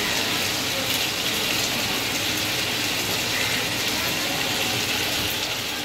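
Chicken frying in a wok, a steady sizzle with crackles, while a steel spatula stirs and scrapes against the pan.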